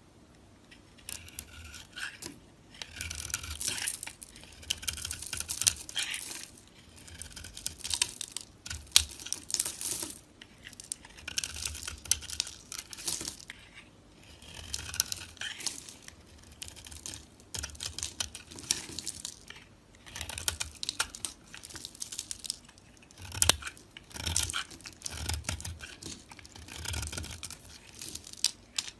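Knife cutting through dry soap: crackly, crunchy strokes repeated about once every two seconds, each a rapid run of small cracks as the blade breaks through.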